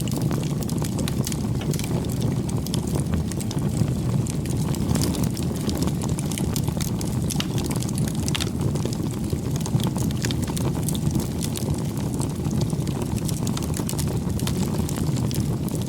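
Wood campfire burning, a steady low rumble of flames with frequent small sharp crackles and pops from the burning wood.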